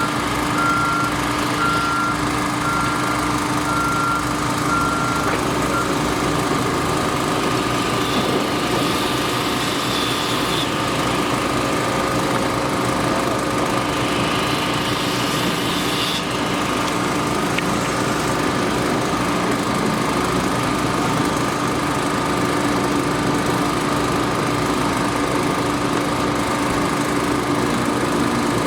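Heavy construction machinery engine running steadily. A reversing alarm beeps at an even pace and stops about six seconds in.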